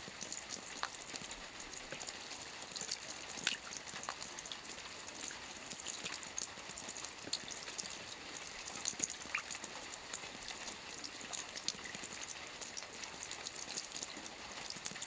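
Steady rain: an even hiss of rainfall with many separate close drop hits ticking through it.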